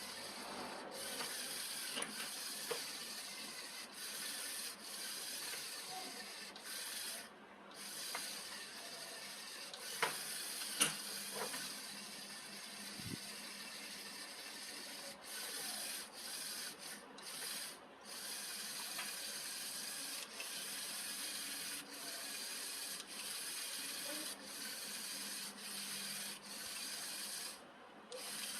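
Sanding by hand: repeated rubbing strokes of an abrasive over a surface, each lasting a second or two with short pauses between, and a few light clicks about ten seconds in.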